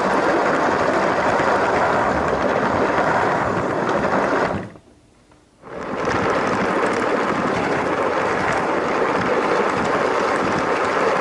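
LEGO train running along its track, a steady close-up whirring rattle from its motor and wheels. It cuts out almost completely for about a second midway, then resumes unchanged.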